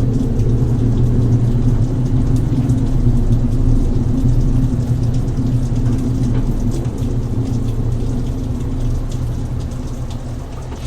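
Steady low rumble of an idling vehicle engine, with scattered light raindrop ticks; it eases off gradually in the second half.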